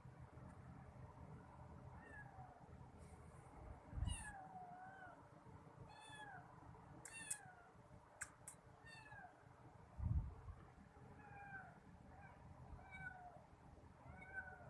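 Kittens mewing over and over, each mew short and high, rising then falling in pitch. Two dull thumps come about 4 and 10 seconds in.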